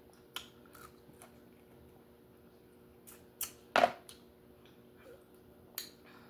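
Scattered sharp clicks and cracks of eating a lobster, a few seconds apart, the loudest a little under four seconds in. A faint steady hum runs underneath.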